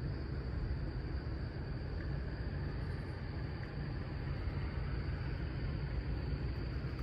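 Dodge Challenger SRT 392's 6.4-litre HEMI V8 running with a steady low drone.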